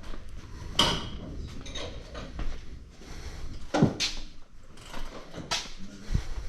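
Several separate knocks and clatters, as of things being handled and set down.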